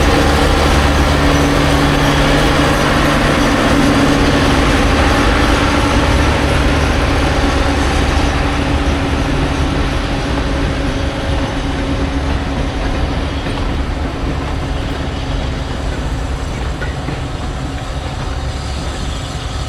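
A train running with a steady low engine note and some clatter, slowly fading over the last half.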